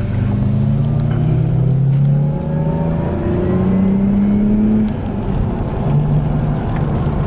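Car engine accelerating hard, its pitch rising, dipping briefly about two seconds in as if at a gear change, and rising again. About five seconds in it eases off to a steadier, lower note.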